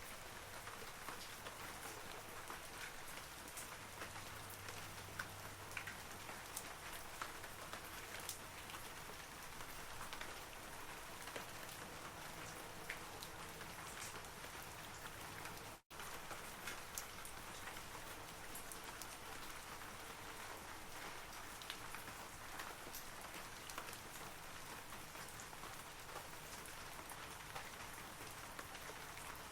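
Steady rain falling on forest trees, an even hiss sprinkled with many small individual drop ticks. About halfway through it cuts out for an instant, then carries on unchanged.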